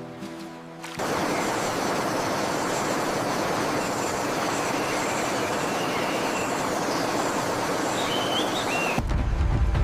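A steady, dense rushing noise with no clear pitch, with a few faint high chirps near the end; it starts abruptly about a second in, when music stops, and ends abruptly as music returns near the end.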